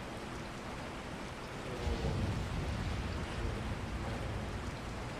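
Steady rain, an even hiss of falling drops. About two seconds in, a low rumble swells and fades over a couple of seconds.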